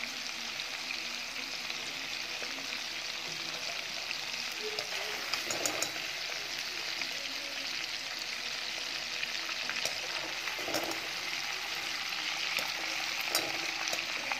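Chicken pieces deep-frying in hot oil, a steady sizzle. A wire spider strainer scoops and drains the pieces, giving a few light metallic clinks against the pan.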